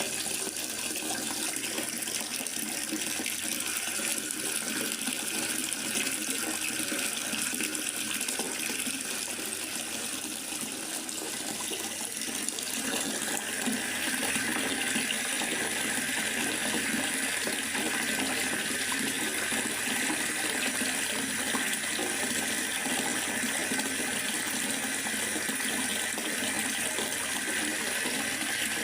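Steady hiss of water from a rain-in-forest ambience recording, growing a little louder and brighter about halfway through.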